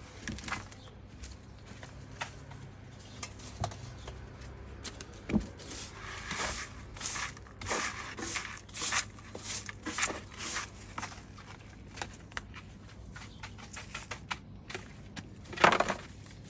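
Brush sweeping plant clippings and debris into a dustpan: a run of short scratchy strokes, coming in quick irregular flurries, with one louder stroke near the end.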